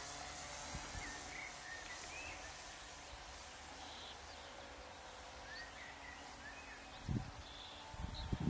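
Faint open-air ambience with small birds chirping now and then, and a couple of low thumps near the end.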